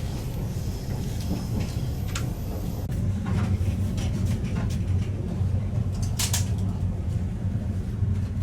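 A train's steady low rumble, with a few short knocks and clicks through it.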